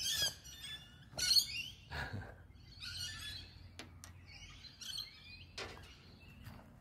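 Birds chirping and twittering in several short bursts of high, warbling calls, with a few faint clicks over a low steady hum.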